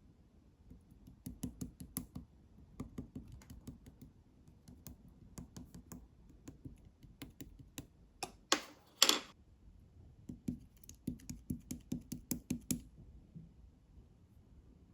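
Slime being pressed and played with by hand, making runs of small sticky clicks and pops, with two louder, longer pops a little past the middle.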